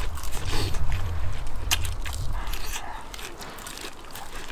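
Close-up crunching and chewing of roast lamb chop wrapped in a fresh lettuce leaf: a run of crisp crackles over the first two seconds or so, then softer chewing. A low rumble sits under the first couple of seconds.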